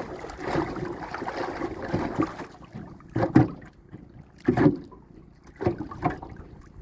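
Handling noise aboard a small boat while hauling prawn traps: a rustling wash of water and wind, then a series of dull knocks against the boat, several of them in pairs about a second apart.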